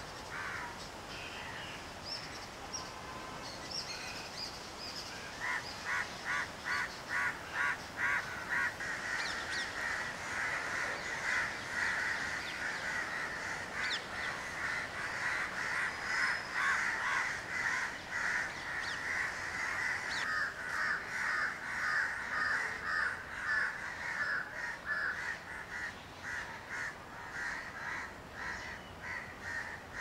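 Birds calling over and over, several calls a second, beginning about five seconds in and thickest in the middle, over a steady rustle of wind in the trees.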